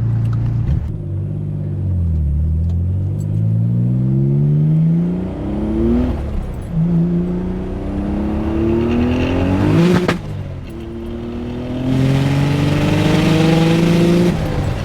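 Nissan 300ZX twin-turbo V6 pulling hard under boost, heard from inside the cabin: the engine note climbs, drops back at gearshifts about 6 and 10 seconds in, and climbs again. A sharp crack comes at the second shift, and a loud hiss, the open-dump wastegates venting, rises over the last pull.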